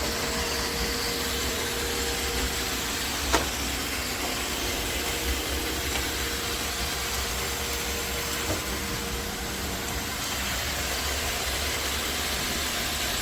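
iRobot Roomba Vac Essential (Q0120) robot vacuum running: the steady hum and hiss of its suction motor and brushes, with a faint steady whine for the first ten seconds or so and a single click about three seconds in.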